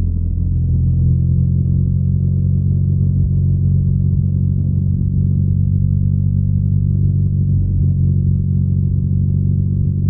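BMW R nineT's air/oil-cooled boxer twin engine and exhaust running steadily under way at an even throttle, a deep low rumble with a slight rise in pitch about half a second in.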